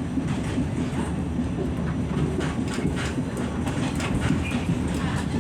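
New York City subway N train running along the track, heard from inside the car: a steady low rumble with scattered clacks of the wheels over the rails.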